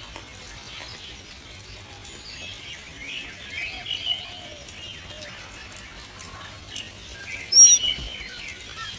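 Birds chirping in short, scattered calls. A single loud, sharp call slides down in pitch near the end.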